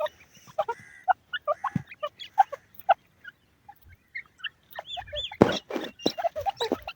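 Desi teetar (grey francolin) calling in a series of short, sharp notes. There is a brief lull in the middle, then a louder, busier burst of calls a little after five seconds in.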